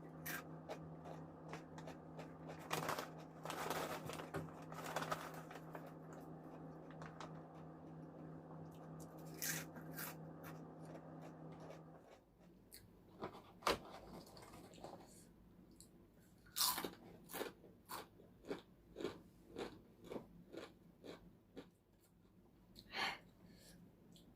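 Close-up crunching and chewing of crisp spicy snack chips, a string of sharp crunches, about one or two a second in the second half. A low steady hum underneath cuts out about halfway.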